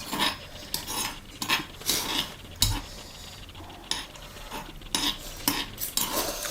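Eating utensils clicking and scraping against an earthenware ttukbaegi pot of cheese ramen: a run of short, sharp clatters, one or two a second.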